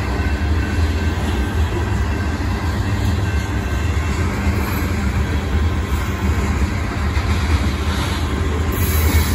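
Long freight train of covered hopper grain cars rolling steadily past, a constant low rumble of steel wheels on the rails.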